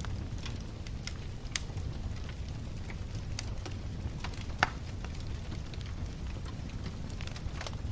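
Wood fire crackling and popping in irregular sharp snaps, two louder pops about a second and a half and four and a half seconds in, over a low steady rumble.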